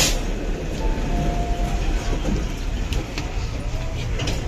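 MTR East Rail Line electric train running on the track with a steady low rumble. There is a sharp clack at the start, a brief faint squeal about a second in, and a few lighter clicks near the end.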